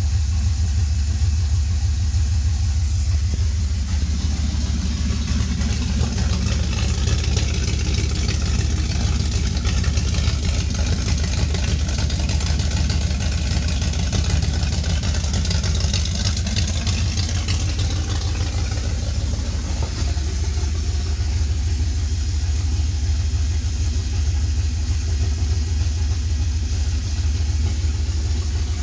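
Ford 351 Windsor small-block V8 in a 1976 Jeep CJ5 running steadily at idle on its first startup after the swap, a continuous low rumble that turns brighter and hissier for a stretch in the middle.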